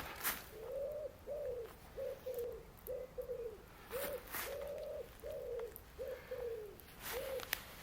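A bird calling in a string of about a dozen low, hooting coos, short notes at much the same pitch coming every half second or so, with a few sharp clicks over them.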